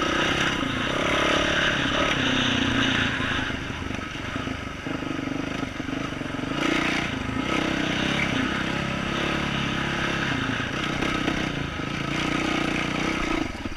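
2012 Yamaha YZ450F single-cylinder four-stroke engine running through an aftermarket exhaust while the bike is ridden on a trail. The throttle opens and closes, so the engine note rises and falls, easing off for a couple of seconds about four seconds in.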